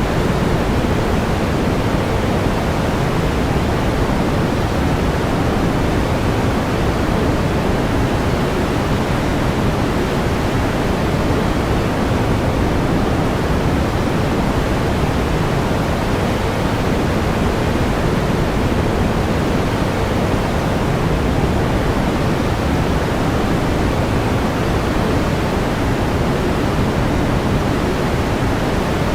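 Steady pink noise: an even, unchanging hiss weighted toward the low end.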